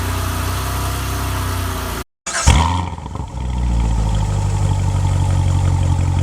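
2016 BMW 750i's twin-turbo V8 running steadily. The sound cuts out for a moment about two seconds in, returns with a short loud burst that quickly falls away, then settles into steady running again.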